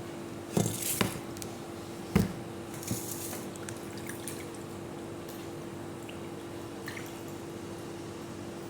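A few short knocks and wet, squishy handling noises in the first three seconds, over a steady low hum.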